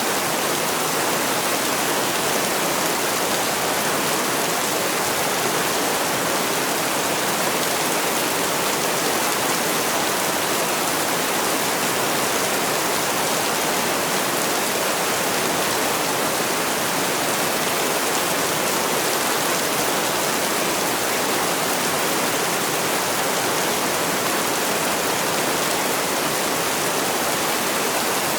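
Heavy rain falling steadily, an even hiss with no single drops or thunder standing out.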